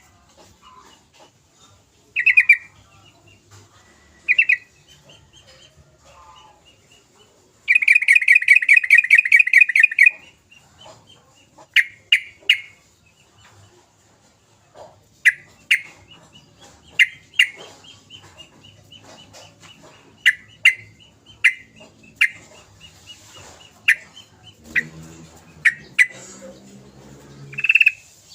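Yellow-vented bulbul (trucukan) calling: short, loud, clear notes repeated every second or two, with a long run of rapid chattering notes about eight seconds in.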